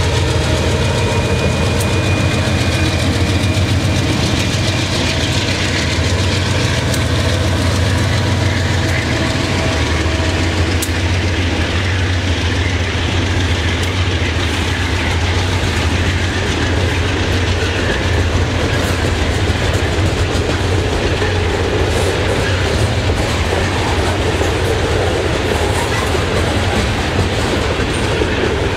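Freight train passing close by: the diesel locomotive's engine drone is strong in the first several seconds and then weakens, while the freight cars roll past on the rails in a steady, continuous rumble.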